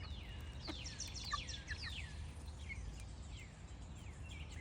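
Young chickens peeping while feeding: many quick, high, falling peeps, several overlapping, over a low steady background rumble.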